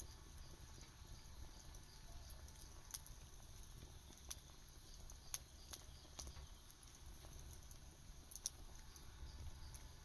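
Wood campfire crackling: scattered sharp pops and ticks, a few of them louder, over a faint low rumble.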